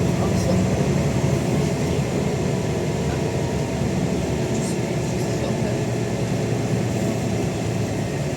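Scania N94UD double-decker bus engine running steadily under way with its ZF automatic gearbox. It has the worn-sounding drone that the uploader calls a tired thrash.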